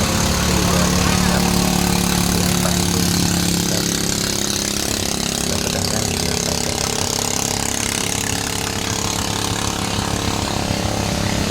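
A boat's engine running steadily at a constant pace, with a rapid low pulsing.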